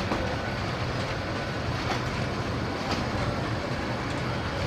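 Express passenger train's coaches rolling past: a steady rumble of wheels on rails with sharp clicks about once a second as the wheels cross rail joints.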